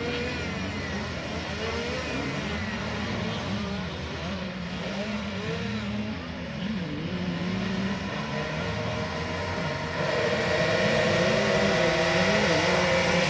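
Several small minibike engines racing around a circuit, their pitches rising and falling as the riders rev and ease off. About ten seconds in, one bike gets louder and closer.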